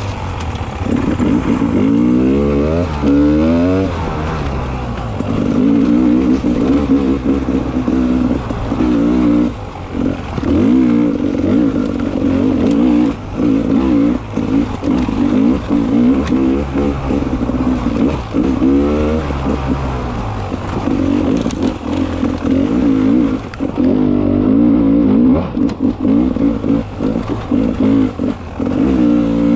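Two-stroke engine of a Beta 300 RR enduro motorcycle running throughout, revving up and back down several times.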